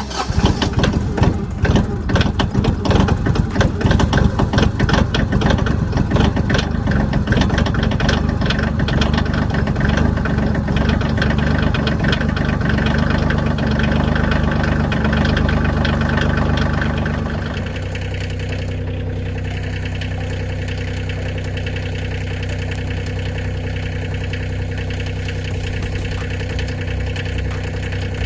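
Kioti CK2610 compact tractor's three-cylinder diesel engine running fast with a rapid clattering pulse. About seventeen seconds in it drops back to a quieter, steady idle.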